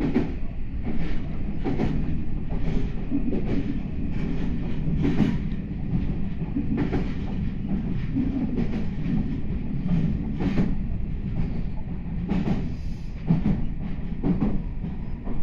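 Meitetsu 9500 series electric train running, heard from inside the passenger car: a steady low rumble, with the wheels clicking over rail joints about once a second at uneven intervals.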